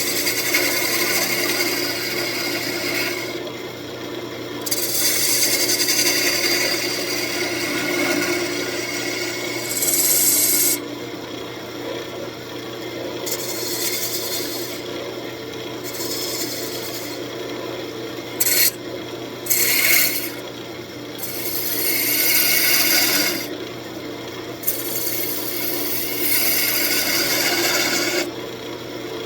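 Wood lathe running with a steady motor hum while the spinning walnut is worked, giving a scraping hiss that comes and goes in passes of one to three seconds.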